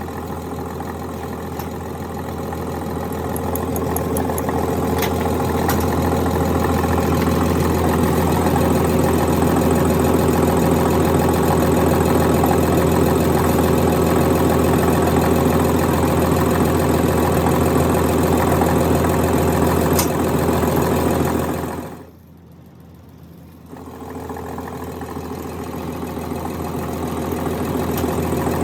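A motor-driven machine running with a steady, even hum. About 22 seconds in it cuts out suddenly, then starts again and builds back up over a few seconds.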